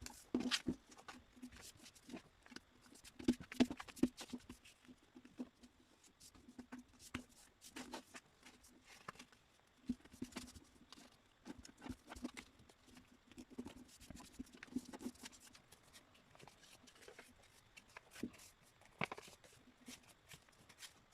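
Sheet of A4 printer paper being folded and creased by hand: irregular rustles and crackles of the paper, louder bursts about three to four seconds in and again near the end.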